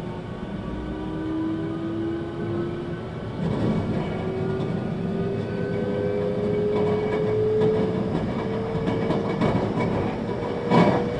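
Interior sound of a 521-series electric multiple unit accelerating. The traction motor and inverter whine climbs steadily in pitch over a rumble of running gear. A single sharp knock comes near the end.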